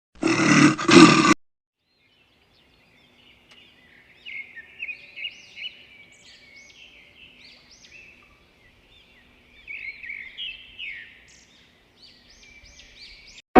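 A loud animal roar cuts off after about a second, then after a short pause a small bird calls over and over with quick, high, rising-and-falling chirps.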